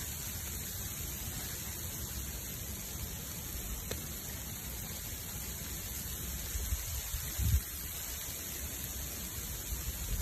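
Steady hiss of freezing rain falling around a burning wood bonfire, over a low rumble, with a faint crackle about four seconds in and a dull thump about seven and a half seconds in.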